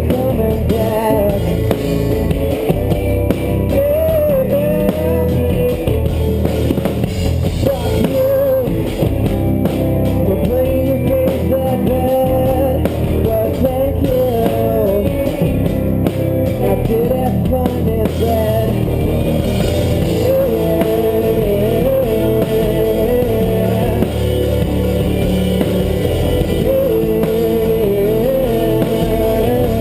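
Live rock band playing loudly and continuously, with electric guitar carrying a wavering melodic line over a drum kit and bass.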